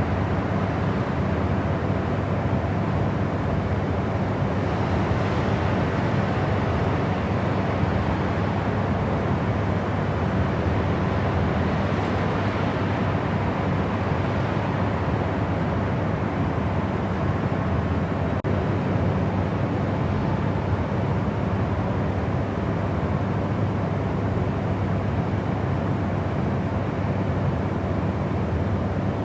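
Steady white noise for sleep: an even, unchanging rushing hiss, fuller in the low and middle range than in the highs, with a faint steady hum underneath.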